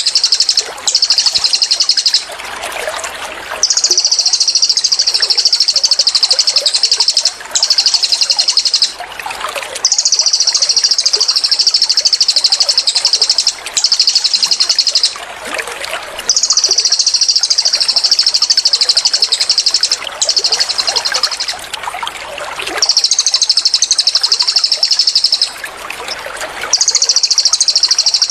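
Cililin songbird delivering its rapid, high-pitched rattling trill ('tembakan') in about ten bursts of one to four seconds, with short pauses between them. A steady trickle of running water plays underneath.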